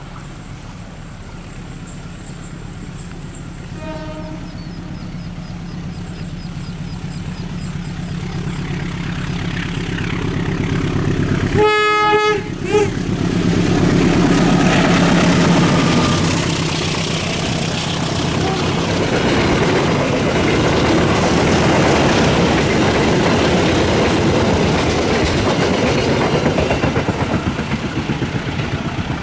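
A diesel locomotive-hauled passenger train approaching, its engine hum growing louder. A faint short horn toot comes about four seconds in and a loud, brief horn blast about twelve seconds in, then the train passes close by with loud wheel and rail noise.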